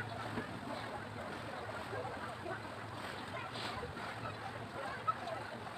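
Faint distant chatter over a steady low hum.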